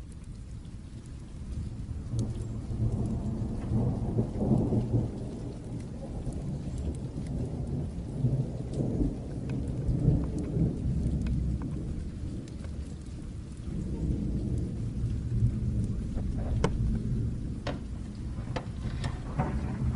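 Long rolling thunder rumble that builds about two seconds in and keeps rolling, over steady rain. A few sharp crackles come near the end.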